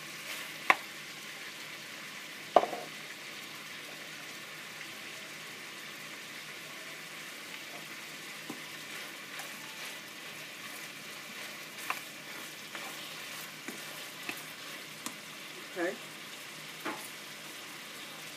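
Shrimp sizzling in a frying pan, a steady hiss, as they are stirred with a plastic spoon. A few sharp knocks break through, the two loudest in the first three seconds.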